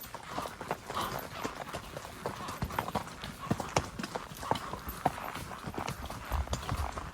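Spotted saddle horse hoofbeats: a quick, irregular clip-clop of hooves striking the ground, several a second.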